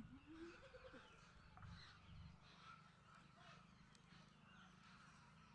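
Near silence with faint animal calls: a short rising call in the first second, then scattered faint bird calls.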